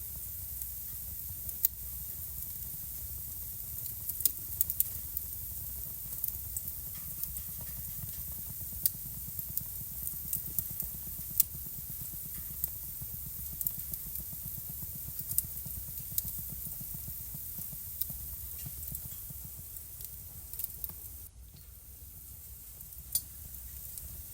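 Wood fire burning in a fireplace, crackling with sharp, irregular pops over a steady low rumble of the flames. The sound drops briefly quieter a little before the end.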